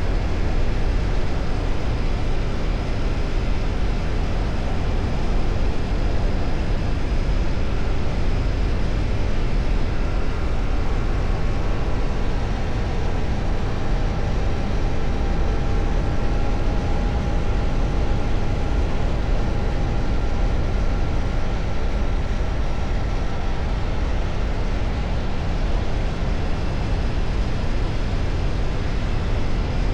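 Ducati Multistrada V4 on the move: a steady rush of wind on the microphone over the V4 engine running at an even pace, with no sharp changes in revs.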